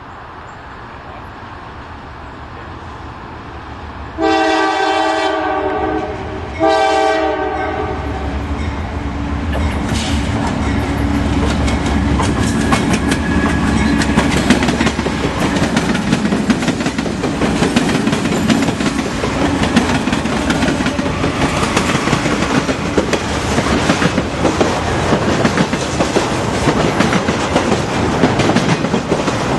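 Diesel train approaching and passing: two horn blasts, each a bit over a second long, then the locomotive's engine rumble building and steel wheels clattering over rail joints as the cars roll by.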